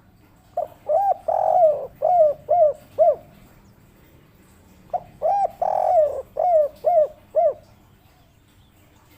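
Derkuku (spotted dove) cooing: two phrases, each a few short coos and one longer drawn-out coo, ending in three quick notes, the 'kuk 3' song pattern.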